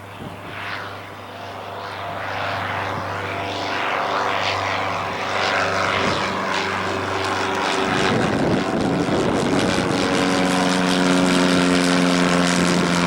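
Cessna 152 light propeller plane, its four-cylinder Lycoming engine running and growing steadily louder as it approaches; about nine seconds in, the engine note steps up in pitch and stays there.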